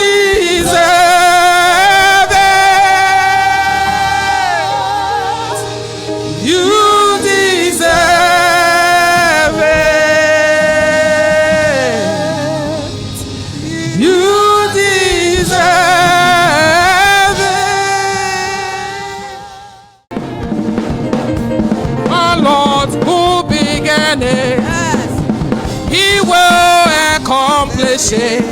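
Gospel worship singing with a band, long held sung notes with vibrato, fading out about two-thirds of the way through. A new song then starts suddenly with a drum kit.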